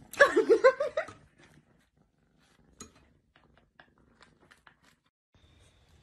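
A kitten eating jam toast off a plate. A short burst of pitched, pulsing vocal sound comes about a quarter of a second in, followed by faint, scattered clicks of chewing and licking.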